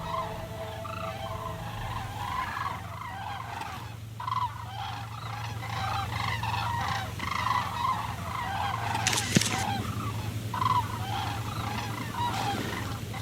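A flock of cranes calling: many short, overlapping calls.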